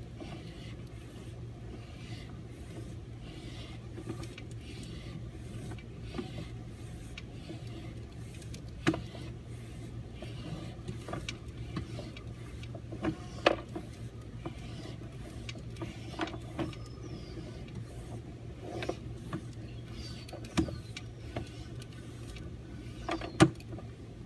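Sewer inspection camera travelling through a newly burst-in sewer pipe: a steady low hum with scattered sharp knocks and clicks as the camera and its push cable bump along the pipe, the loudest knocks about nine, thirteen, twenty and twenty-three seconds in.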